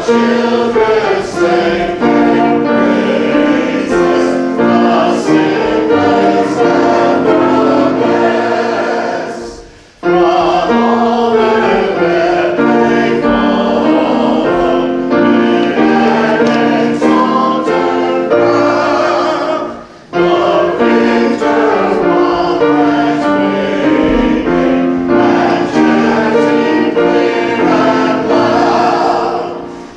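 Church congregation singing a hymn together with accompaniment, in phrases that fade briefly about every ten seconds.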